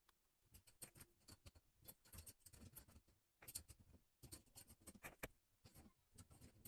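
Near silence with faint, irregular clicks and scrapes of hands handling and screwing together plumbing fittings.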